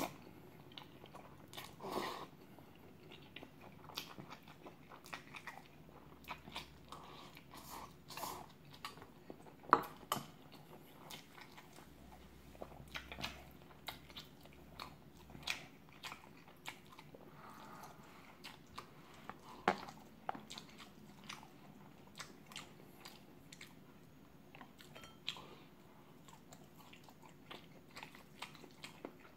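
Close-up eating sounds: a short slurp of chewy jjolmyeon noodles near the start, then wet chewing and small mouth clicks, with a few sharper clicks along the way.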